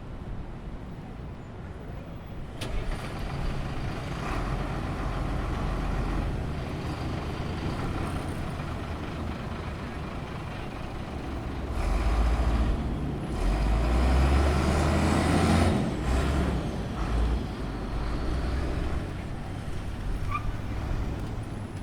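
City street traffic: a steady hum of passing vehicles, with a heavy vehicle's deep engine rumble loudest from about 12 to 16 seconds in.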